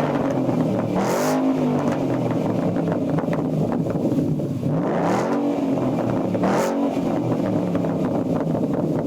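2012 Mustang GT's 5.0 V8 through Jegs aftermarket mufflers, idling and blipped three times: a quick rev about a second in, another around five seconds, and a sharper one shortly after, each dropping back to idle.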